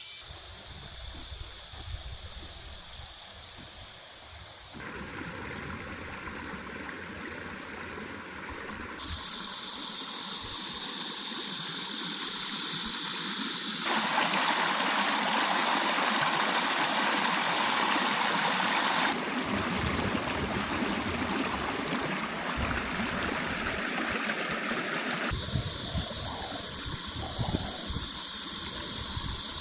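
A stream's running water gives a steady rushing noise that changes sharply in loudness and tone several times, louder and brighter from about nine seconds in.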